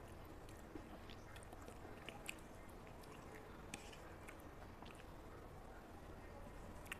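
Faint mouth sounds of a person chewing a mouthful of spaghetti, with scattered soft clicks over a low steady background noise.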